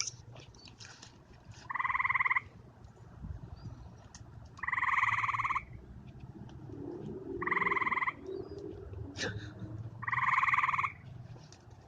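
Frogs calling in a chorus: a trilled call repeated about every three seconds, four times, each trill under a second long.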